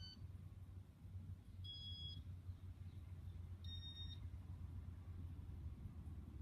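Casablanca Nouvelle ceiling fan running with a steady low hum, while two short electronic beeps sound about two seconds apart, about two and four seconds in.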